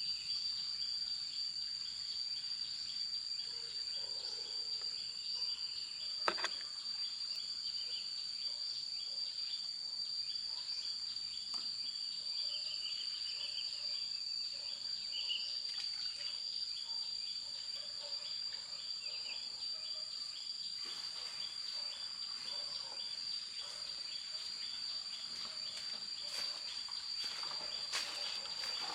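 Steady insect chorus: a continuous high-pitched drone with a fast pulsing underneath. A single sharp knock sounds about six seconds in, and a few short chirps come and go.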